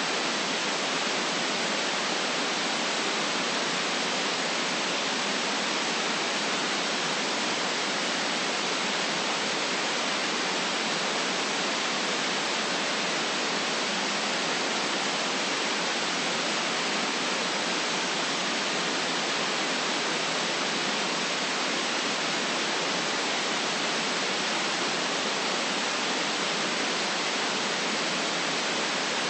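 Steady white noise: an even, unchanging hiss with no low rumble.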